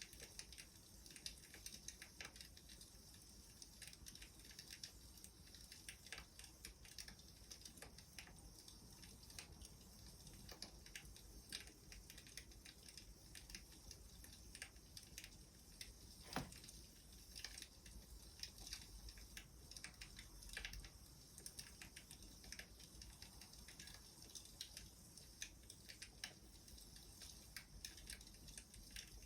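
Faint crackling wood fire: irregular small pops and snaps over a soft hiss, with one sharper pop about sixteen seconds in.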